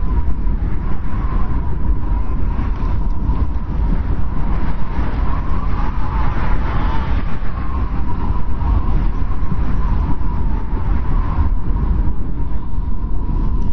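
Snowstorm wind: a steady, deep rumble of wind with a thin, wavering whistle over it that swells about halfway through.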